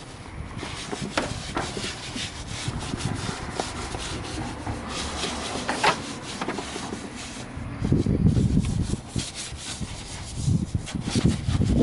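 A detailing brush scrubbing foamed engine-bay parts and hoses, with an irregular scratchy rubbing. There are louder dull, low bursts about two-thirds of the way through and again near the end.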